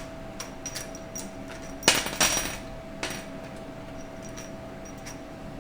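Metal parts of a 4L60E automatic transmission clinking and knocking as they are handled in a teardown: a sharp clank about two seconds in with a short rattle after it, another knock a second later, and lighter taps around them, over a faint steady hum.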